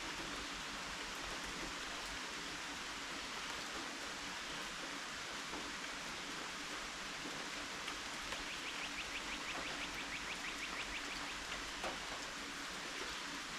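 Steady rain falling, an even hiss. About eight seconds in, a rapid high trill of short chirps runs for about three seconds.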